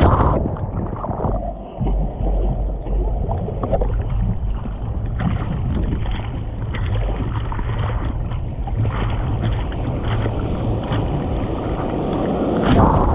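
Sea water splashing and rushing with wind buffeting the microphone, making a heavy low rumble throughout.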